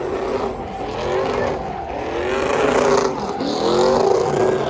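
Vehicle engine revved hard again and again, its pitch rising and falling in quick repeated swells.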